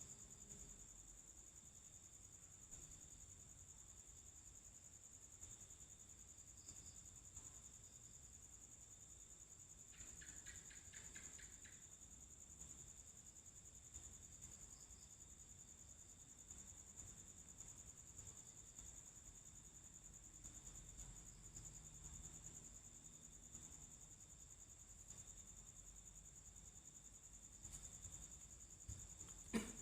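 Faint, steady high-pitched trilling of night insects, likely crickets, with a short run of rapid chirps about ten seconds in. A single brief knock comes just before the end.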